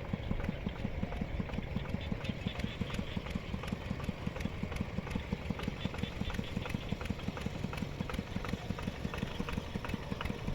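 Mini tractor's engine running steadily with a rapid, even chug.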